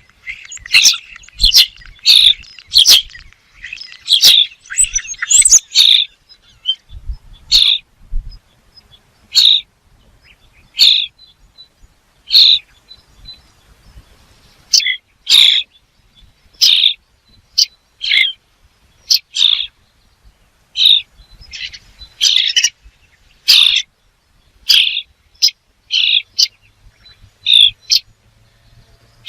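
A bird chirping in short, high notes. The chirps come quickly and overlap for the first few seconds, then settle into single chirps about every second or so.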